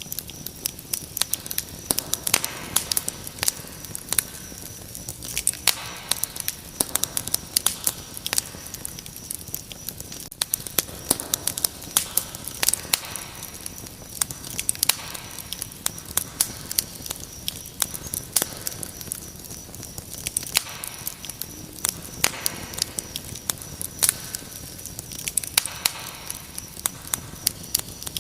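Wood fire crackling in a fireplace, with frequent sharp pops and snaps, over a steady high-pitched trill of crickets.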